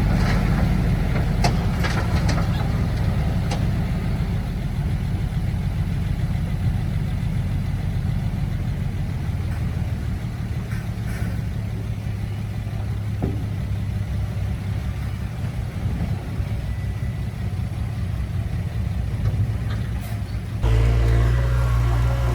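Heavy earthmoving machine's diesel engine running steadily under load, with a few sharp metallic clanks. About twenty seconds in, the engine drone suddenly gets louder and deeper.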